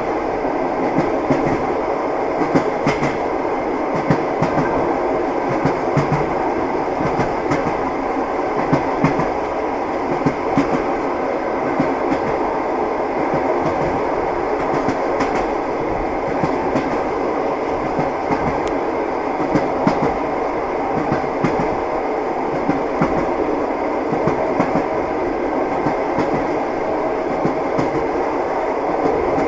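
Train wheels running on the rails, a steady rumble with short clicks and knocks at irregular intervals as the wheels pass over rail joints.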